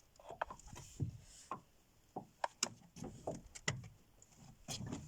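Irregular light knocks and thumps, about a dozen over the few seconds, some with a sharp click on top.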